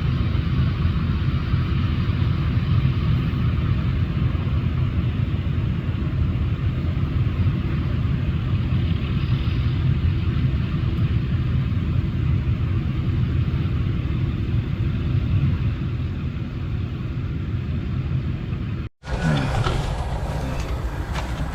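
Steady low rumble of a vehicle's engine and road noise. About 19 seconds in it cuts off abruptly and a brighter, harsher machinery sound takes over.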